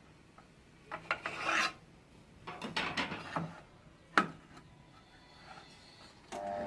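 Two short bursts of scraping and rubbing, then a sharp click, as the mini band saw is handled. Near the end its small electric motor starts up and runs with a steady hum.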